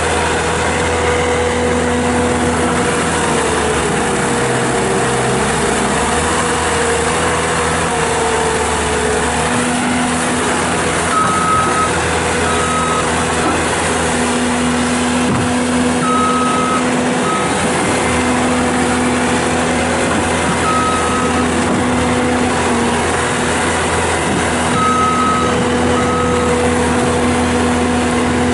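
Bobcat S630 skid steer loader's Kubota V3307 diesel running steadily, with the machine's backup alarm sounding short high beeps, mostly in pairs, every few seconds from about a third of the way in as it reverses.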